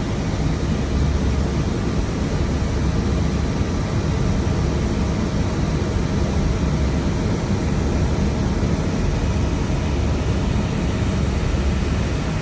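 Steady flight-deck noise of an Airbus A321 in flight: an even rush of air and engine noise heard inside the cockpit.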